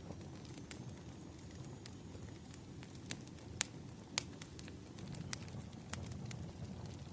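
Wood fire crackling, with irregular sharp pops and snaps, two louder ones a little past the middle, over a steady low rumble.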